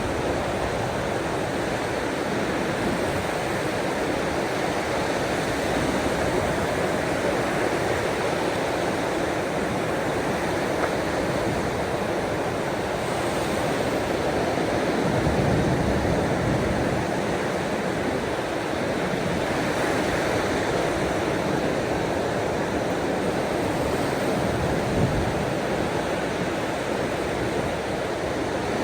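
Ocean waves washing ashore: a steady rushing noise that swells and eases slowly.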